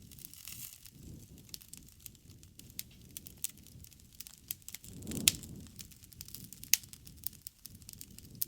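Campfire crackling, with a steady scatter of sharp pops over a low rush of flame. Two louder pops stand out, about five seconds in and just under seven seconds in.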